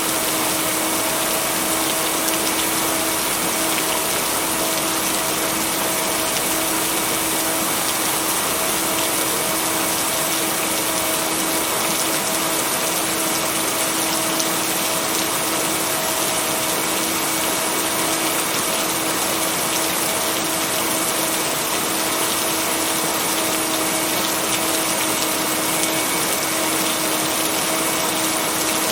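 Steady, even rain noise with no thunder, overlaid by a constant low hum of steady tones: the binaural-beat tone blended into the rain track.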